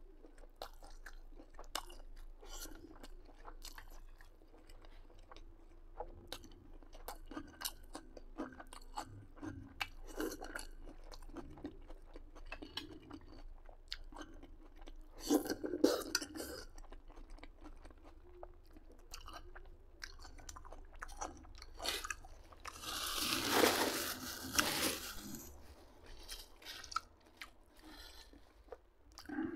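Close-miked chewing of food such as plov and grilled meat: soft wet mouth clicks and light crunches, scattered and irregular. About three-quarters of the way through comes the loudest sound, a breathy rushing noise lasting about two seconds.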